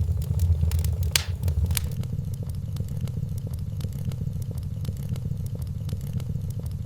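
Wood fire crackling in a fireplace: scattered small pops and ticks over a steady low rumble, with a couple of sharper pops about a second in.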